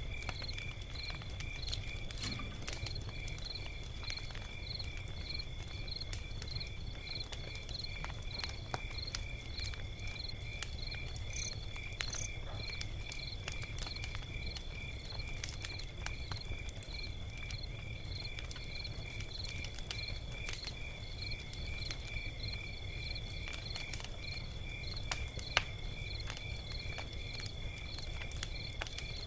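Log fire crackling with scattered small pops and one sharper pop about 25 seconds in, over a steady low rumble. Crickets chirp steadily throughout at about three chirps a second.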